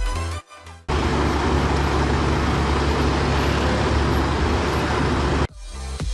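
A heavy vehicle's engine running steadily with a dense rumble, starting about a second in and cutting off suddenly near the end, where electronic dance music returns.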